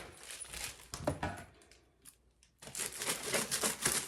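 Packaging being handled and opened: crinkling and rustling, with a short pause in the middle before a longer, denser stretch of crinkling.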